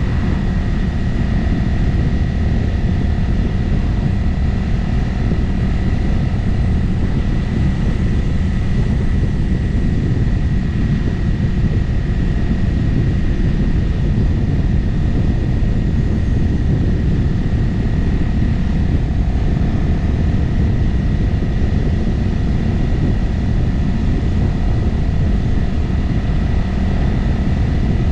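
Motorcycle engine running steadily at cruising speed, with heavy wind rush over the mic. It holds an even pitch, with no gear changes or revving.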